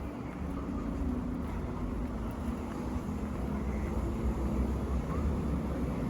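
City street traffic: a steady low rumble of cars and other vehicles running nearby, with a faint engine hum.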